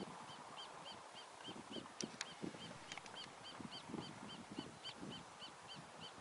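Birds calling: a rapid, even series of short high chirps, about three or four a second, over scattered lower calls.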